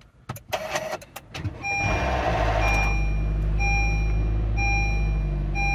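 A few clicks as the ignition is switched on, then the Honda Vezel's 1.5-litre four-cylinder petrol engine cranks and catches about a second and a half in and settles into a steady idle. From about two and a half seconds in, a warning chime beeps about once a second: the alert for the open bonnet.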